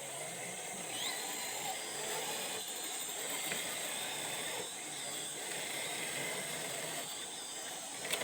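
An RC rock crawler's electric motor and gear drivetrain whining as it drives, easing off briefly about every two seconds, over a steady high hiss.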